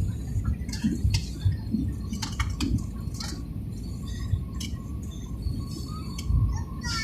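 Low steady rumble inside an airliner cabin on the ground after landing, with scattered small clicks and rattles.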